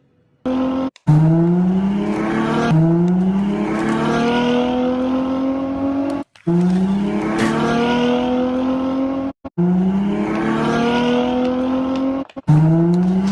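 Sports-car engine accelerating hard through the gears: its pitch climbs, drops back at each upshift and climbs again. The sound cuts off abruptly three times and restarts with the same run, as if edited in.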